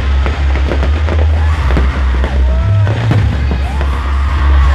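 Aerial fireworks display going off: a dense run of crackling pops and bangs from bursting shells, over a steady low rumble.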